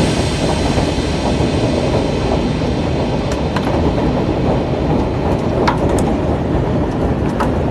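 Hailstorm: a steady, dense roar of hail and heavy rain coming down, with a few sharp clicks of single hailstones striking in the second half.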